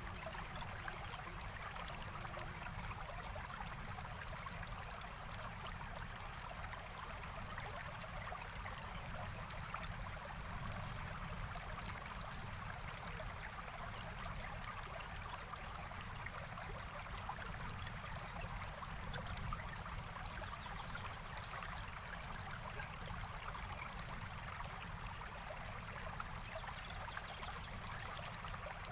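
Forest stream flowing steadily, a constant rush and trickle of water, with faint scattered crackles from a campfire.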